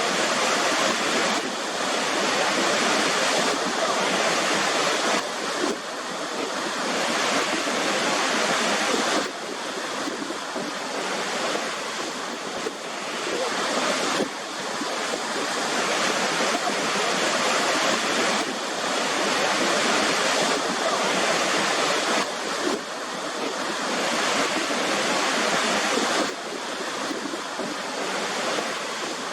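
Waterfall water rushing in a steady, dense roar of white noise, with sudden small shifts in level a few times.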